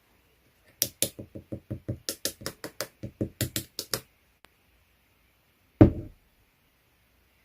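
Slime being poked and pressed: a quick run of sticky clicks and pops, about five a second for some three seconds, followed a couple of seconds later by one louder thump.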